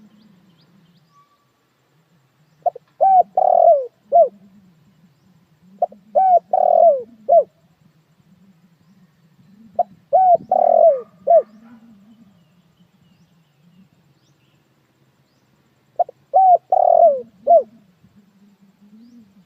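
Puter dekukur dove cooing: four short coo phrases, each of three or four quick arched notes, a few seconds apart.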